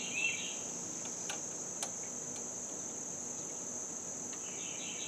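Steady, high-pitched chorus of insects, crickets by the sound of it, with a couple of faint clicks about a second and a half and two seconds in, and brief chirping at the start and again near the end.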